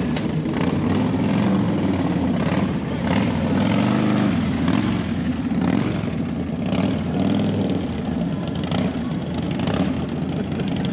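Motorcycle engine idling with throttle blips, its pitch rising and falling, most clearly about four seconds in.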